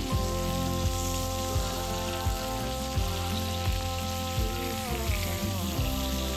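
Food frying in a hot pan, a steady sizzling hiss, heard under background music with a steady beat and held notes.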